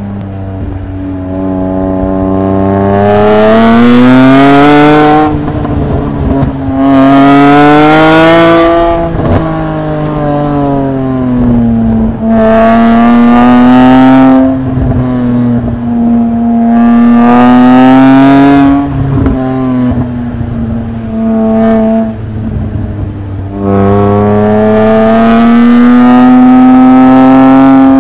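BMW E46 M3's S54 inline-six through Euro-spec headers and a Supersprint exhaust, pulling hard five times. The note climbs and grows loud under throttle, then drops back in pitch and level each time the throttle closes.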